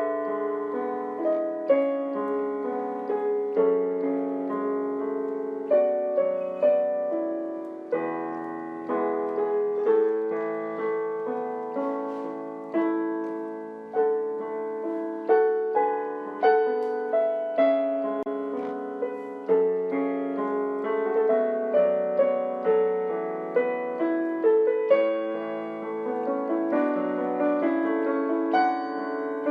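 Background piano music: notes and chords struck one after another and left to fade, with no drums or voice.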